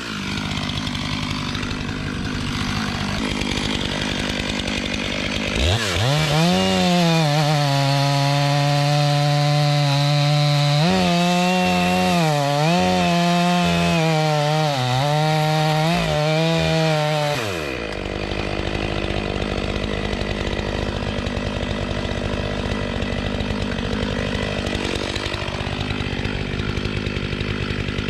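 Stihl MS 500i fuel-injected two-stroke chainsaw running low, then revved to full throttle about six seconds in and held there while bucking a log, its pitch dipping several times as the chain loads up in the wood, before dropping back to idle a little past halfway.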